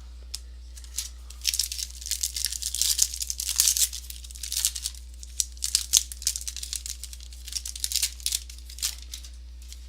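Trading-card pack wrappers being torn open and crinkled, with cards handled: irregular crackling and clicking, busiest in the middle and with one sharp click about six seconds in.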